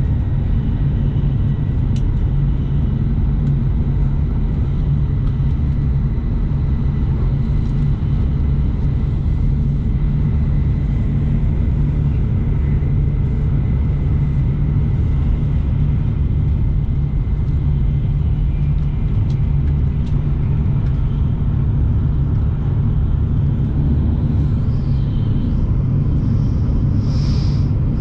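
Shinkansen bullet train running at speed, heard from on board as a steady low rumble with a faint steady whine above it.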